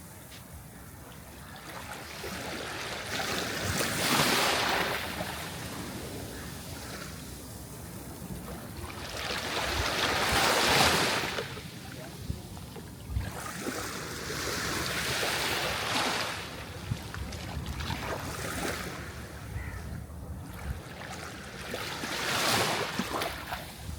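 Sea waves breaking and washing ashore, the surf swelling and falling away about five times, every four to six seconds.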